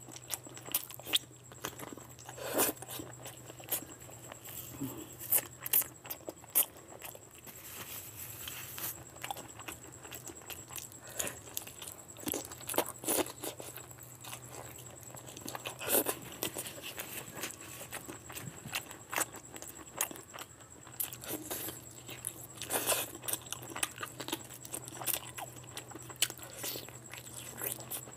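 Close-miked eating: biting and tearing meat off a curried chicken drumstick and chewing it with the mouth open, a run of irregular wet smacks and clicks.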